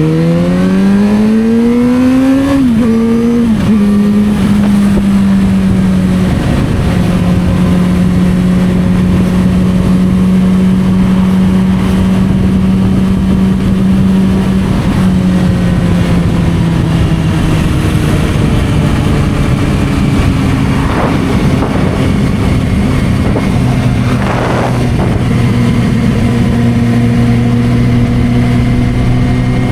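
Suzuki GSR600's inline-four engine through a Dominator aftermarket exhaust, rising in pitch under acceleration for the first two and a half seconds, then shifting up and holding a steady cruise. From about halfway the pitch eases down gradually and settles at a lower steady note.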